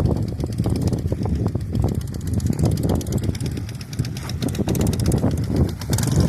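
Dnepr sidecar motorcycle's flat-twin engine running under load, its level rising and falling unevenly as the throttle is worked, with scattered knocks and rattles.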